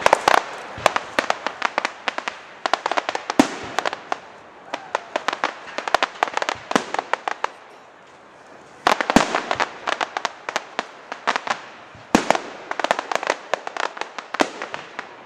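Fireworks going off: rapid volleys of sharp bangs and crackles in dense clusters, easing to a lull around seven or eight seconds in, then starting up again with fresh volleys about nine and twelve seconds in.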